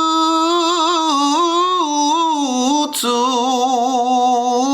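A single voice singing unaccompanied, drawing out long held notes with a wavering vibrato. The singing breaks briefly about three seconds in with a short sharp intake before the next held note.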